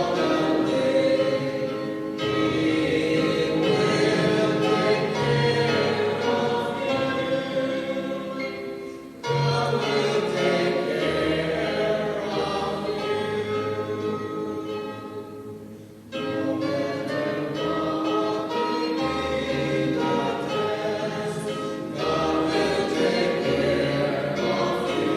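A group of voices singing a slow worship song in long held notes over a low accompaniment, with brief breaks between phrases about 9 and 16 seconds in.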